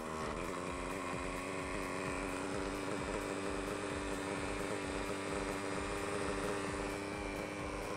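Kyosho Nexus 30 nitro RC helicopter running: its glow engine and rotor climb briefly in pitch at the start, then hold a steady drone.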